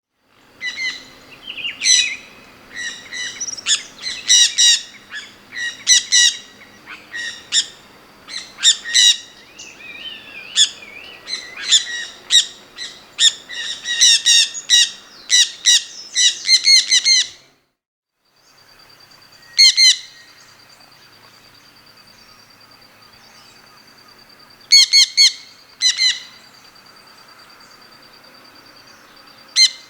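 A bird chirping in quick, bright repeated calls for about seventeen seconds. Then the sound drops out for a moment and a steady high-pitched buzz carries on, with only a few single chirps over it.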